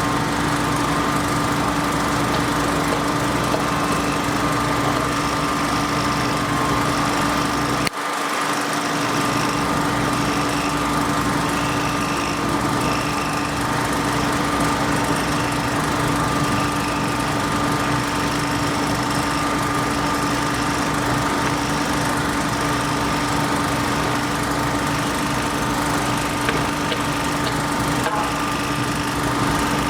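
A small engine running steadily at a constant speed, with a brief dropout in the low hum about eight seconds in.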